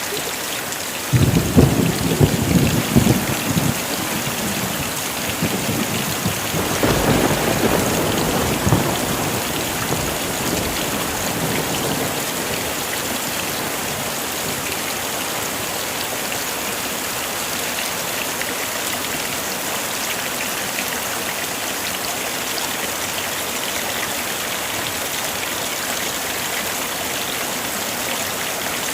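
Heavy rain falling steadily, with two rolls of thunder: one about a second in and another around seven seconds in. After that there is rain alone.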